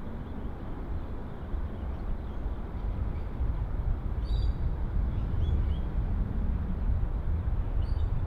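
Low rumble of a distant airliner, slowly growing louder, with a few short bird chirps about four and five seconds in and again near the end.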